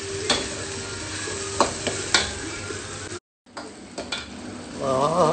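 Chopped chilies and onion sizzling in oil in a wok while a slotted metal spatula stirs them, scraping and knocking against the pan several times. The sound drops out briefly about three seconds in.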